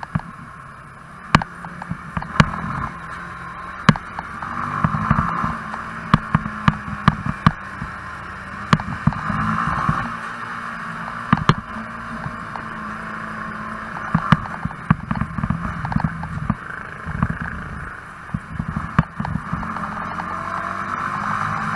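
Yamaha YZF-R15 motorcycle riding along, its single-cylinder engine running under steady wind and road noise, with many sharp clicks and knocks scattered throughout.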